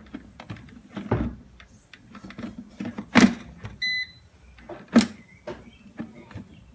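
Air fryer basket being pushed shut, with several sharp plastic-and-metal clunks, and one short electronic beep from the air fryer's control panel about four seconds in.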